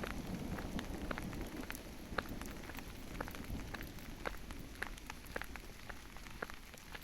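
Rain falling in a forest, with many separate drops heard as sharp ticks over a steady hiss. A low rumble fades away over the first couple of seconds.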